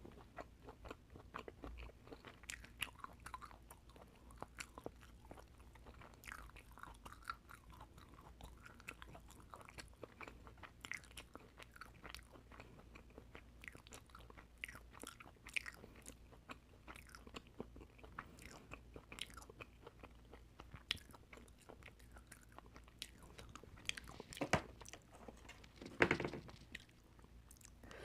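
Close-miked chewing of oysters: a steady run of small wet clicks and smacks, with two louder bursts near the end.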